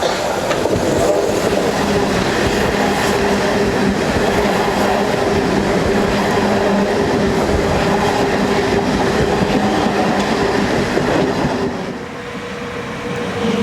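Class 395 Javelin high-speed electric train running through the station without stopping: steady wheel and rail noise with a low hum from its traction equipment. Near the end the noise dips briefly, then a second Class 395 comes in with a steady, higher hum.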